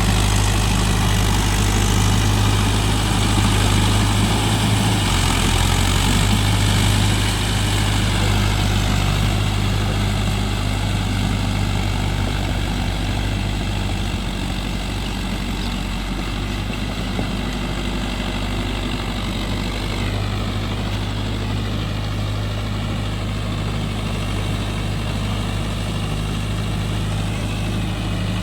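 Mahindra Yuvo Tech+ 585 DI tractor's diesel engine running steadily, with a small change in engine speed about five seconds in and growing a little quieter from about eight seconds on.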